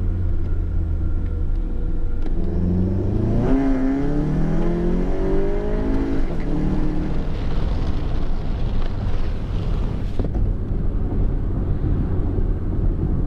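Volkswagen MK7 GTI's turbocharged 2.0-litre four-cylinder, with a 3-inch catless downpipe and Cobb Stage 3 tune, accelerating from low speed in second gear. The engine note rises steadily from about three seconds in and drops at an upshift a few seconds later, then runs on with a noisier, brighter rush before easing back to a steady hum near the end.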